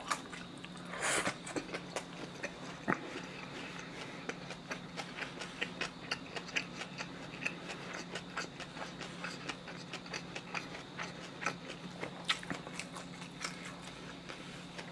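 Close-miked eating of spicy cold noodles with sliced pork hock: steady chewing with many small wet clicks and smacks of the mouth, with a louder burst about a second in.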